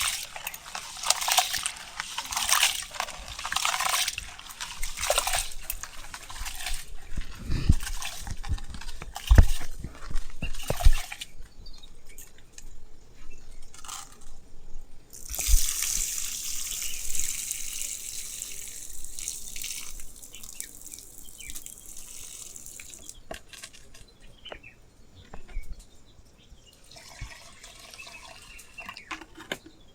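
Water splashing in short irregular bursts for about eleven seconds, then a steady pouring stream for several seconds, then fainter drips and small splashes.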